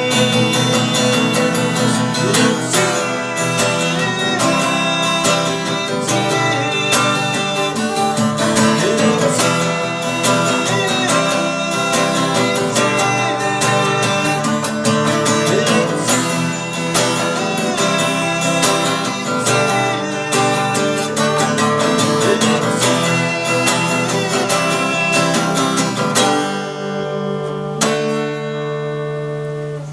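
Acoustic guitar playing an instrumental break in a busy run of notes and chords; near the end a chord is left to ring.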